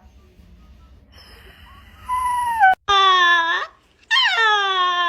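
A dog giving three drawn-out howls, each falling in pitch, starting about two seconds in; the last call is the longest.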